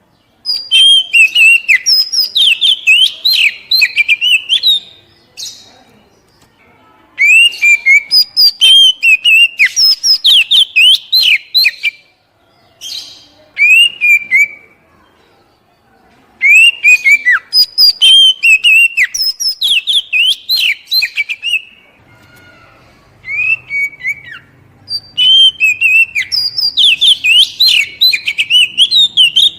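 Oriental magpie-robin (kacer, poci type) singing loud bouts of rapid, varied whistled notes, with short pauses between them.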